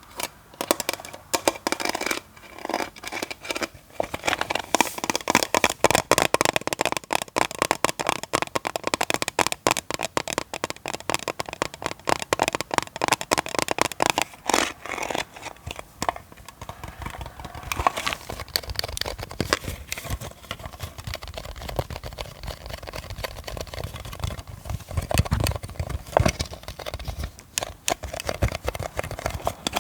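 Close-miked ASMR scratching and crinkling on some object: a dense run of rapid strokes with brief pauses.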